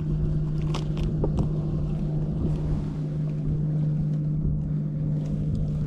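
Boat motor running with a steady hum, with a few sharp clicks about a second in.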